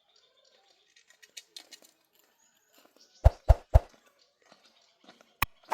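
Faint rustling and light clicks. About three seconds in come three quick, heavy thuds, then a sharp knock near the end.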